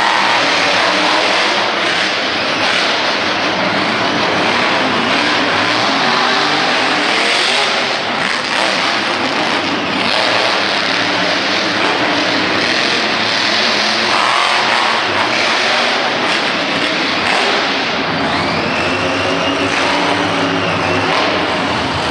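Monster truck engine running at high revs, the pitch rising and falling as the throttle is worked through a run.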